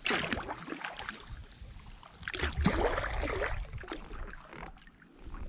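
Kayak paddle strokes splashing and dripping in shallow river water, with one bout right at the start and a longer one a couple of seconds in.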